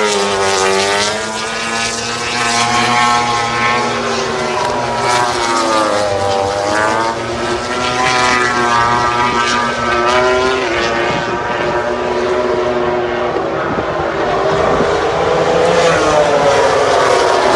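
High-revving motorcycle racing engines, their pitch rising and falling several times as they rev and pass, over a steady low engine hum.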